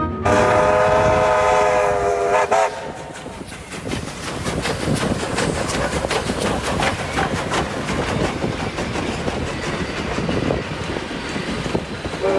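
A steam locomotive whistle sounds a steady chord for about two and a half seconds, then cuts off. The train then runs with a steady rumble and fast, irregular clicking from the wheels and track, and the whistle starts again at the very end.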